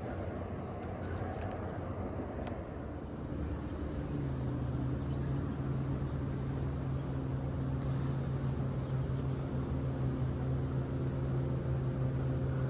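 Steady low motor hum of a boat engine that comes in about three seconds in and holds, with faint high bird chirps over it.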